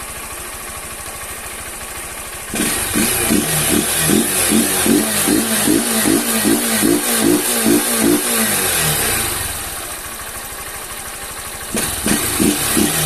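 Honda CG 160 Fan's single-cylinder engine running warm, no longer tapping at the valves now the oil has reached the top end. About two and a half seconds in it suddenly gets much louder, with a fast even pulsing, for several seconds, then settles back, and it loudens briefly again near the end.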